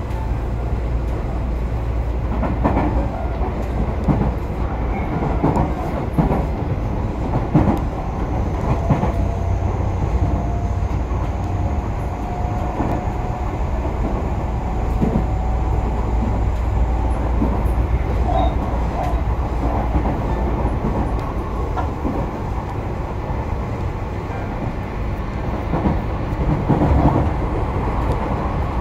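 Running sound of a Tobu Urban Park Line (Noda Line) express train heard from inside the carriage: a steady low rumble of wheels on rail, with irregular clacks and knocks from the track. A faint thin whine runs for several seconds in the middle.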